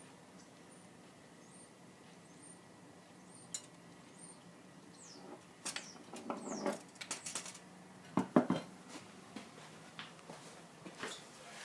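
Scattered clinks, knocks and scrapes of objects being handled, busiest about six to nine seconds in, with faint, short, high chirps in the first few seconds.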